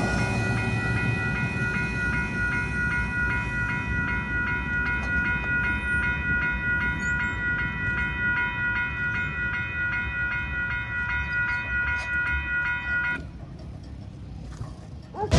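Railroad grade-crossing bells ringing in a steady, even rhythm over the low rumble of a train on the tracks. The bells cut off suddenly about thirteen seconds in, leaving only a fainter rumble.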